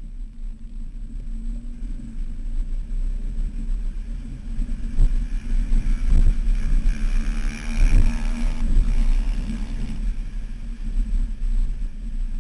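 Jeep engine running as it drives over sand dunes, a steady low rumble that swells louder for a few seconds midway, with several knocks from the vehicle jolting over bumps.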